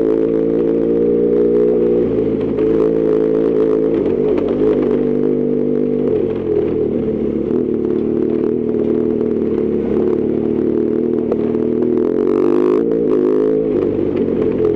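BMW R1200GS Adventure's flat-twin engine running while the bike is ridden, its note steady with slight shifts in pitch as the throttle changes, with light ticks and rattles mixed in.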